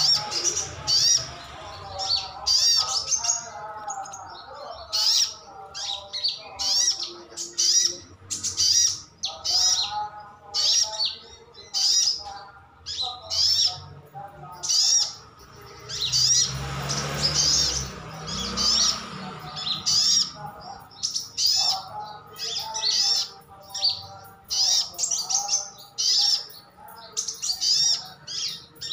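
Sunbird (sogon) singing: fast runs of sharp, high chirps repeated in phrases, with lower warbling notes between them. A brief rushing noise passes a little past the middle.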